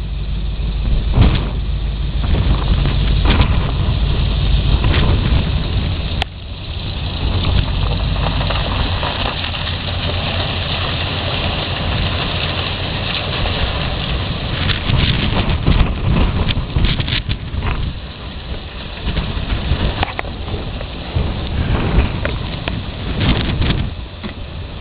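Strong gale-force wind buffeting the microphone: a deep rumble and rushing noise that surge and ease with the gusts, dropping off sharply for a moment about six seconds in.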